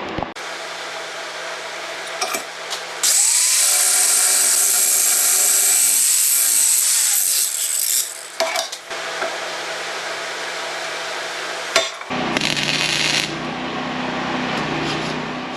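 A power tool cutting into steel. It runs steadily, then cuts much louder for about five seconds, its pitch dipping under load, and runs on with a changed sound near the end.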